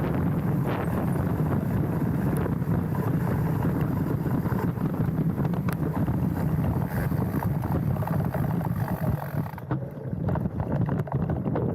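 Wind buffeting a handlebar-mounted camera's microphone, with the low rumble of mountain bike tyres rolling over a dirt trail and scattered clicks and rattles from the bike. Near the end the hiss drops away for a couple of seconds while the rumble carries on.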